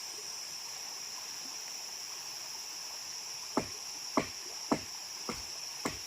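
Steady high-pitched drone of crickets and other insects; a little past halfway, a run of sharp, evenly spaced knocks begins, about two a second.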